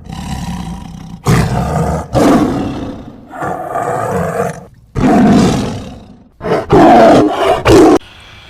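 A large animal roaring in a series of loud, rough calls about a second long each, with short breaks between them. The calls are loudest toward the end and stop abruptly shortly before the end.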